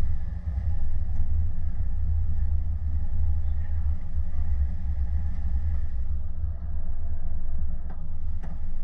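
A steady low rumble, like a vehicle engine running or wind buffeting the microphone.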